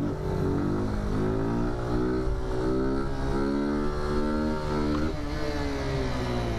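Small single-cylinder motorcycle engine pulling under throttle, its pitch climbing steadily. About five seconds in it eases off and drops a little, then pulls again.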